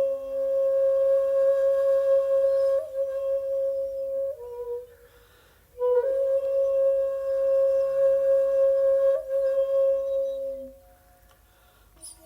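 Solo shakuhachi (Japanese end-blown bamboo flute) playing two long held notes at the same pitch, each swelling and fading over about five seconds, with a short breath pause between them and a brief slide at the start of each.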